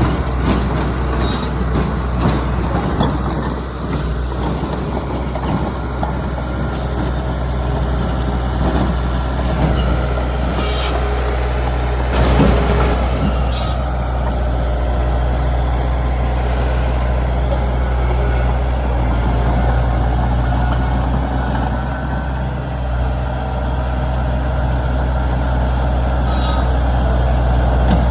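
Heavy diesel engine running steadily with a deep drone, with a few brief sharp clanks, one about midway and one near the end.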